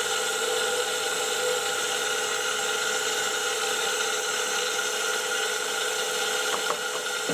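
SGS-612 benchtop surface grinder running, its spindle motor and wheel giving a steady whine, with a couple of light clicks near the end.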